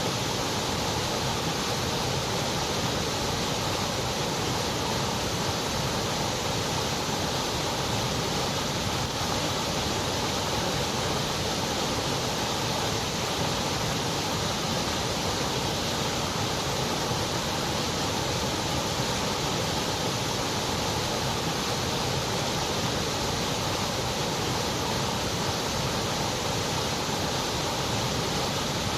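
Continuous white noise: an even, unchanging hiss that never varies in level.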